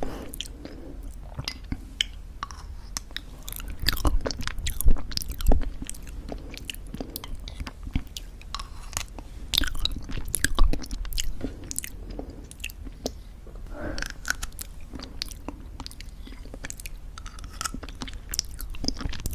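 Close-miked chewing of crunchy granola mixed with thick yogurt: a run of crisp crackles and soft wet mouth sounds, with a few louder crunches.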